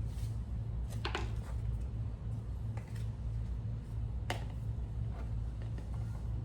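A few sharp clicks and light clatters from handling tools and parts, a cluster about a second in and a single click just after four seconds, over a steady low hum.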